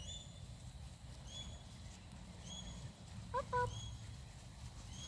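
A bird chirping, one short high call about once a second. A brief two-note squeal comes about three and a half seconds in, over a steady low rumble.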